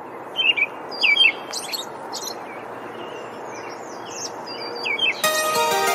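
Birds chirping and trilling in short repeated calls over a steady hiss of outdoor ambience. Music comes in near the end.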